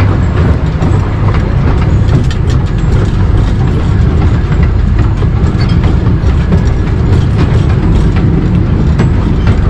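Taipingshan Bong-Bong narrow-gauge forest train running along the track, heard from aboard an open-sided carriage: a steady low rumble with the light clicking of wheels on rails.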